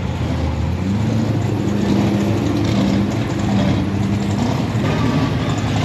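A car engine idling steadily, with a low, even running note that wavers slightly in pitch.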